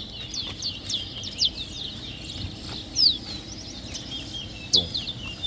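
Caged songbirds singing in a bird song race: rapid, high chirps and sharp falling notes, with a few louder notes standing out.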